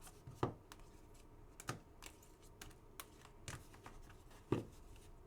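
Faint, irregular clicks of typing on a computer keyboard, with two louder knocks about half a second in and near the end.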